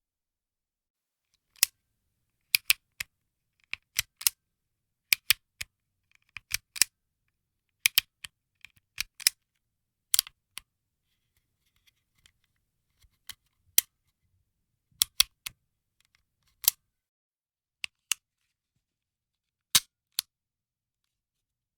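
A handgun's hammer being cocked and released over and over, making sharp metallic clicks in pairs and small clusters about a second apart. About two-thirds of the way in it changes to dry firing: the trigger is pulled and the hammer falls on an empty chamber with the same kind of click.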